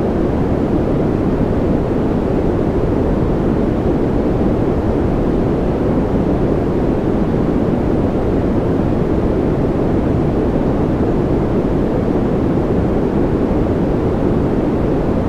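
Continuous synthetic noise of the kind played as white noise for sleep: a steady, deep hiss weighted toward the low end, with no changes or events.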